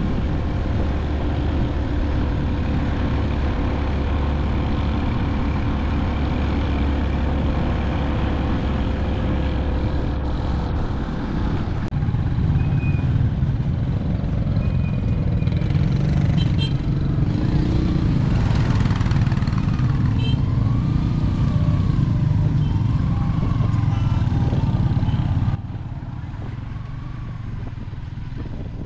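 Motorbike engine running with road and wind noise while riding, steady throughout, the sound changing abruptly about twelve seconds in and again near the end.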